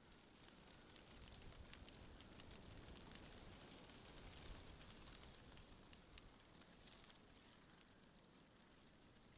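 Faint wind blowing, with scattered light crackling ticks; it swells a little in the first half.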